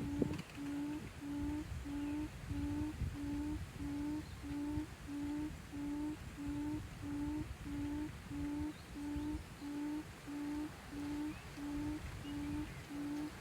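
A bird's low hooting call, one short note repeated evenly about three times every two seconds without a break, over a low rustling rumble.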